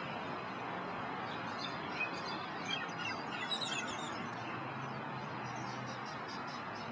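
A few short, high bird chirps about two to four seconds in, over a steady outdoor background hiss.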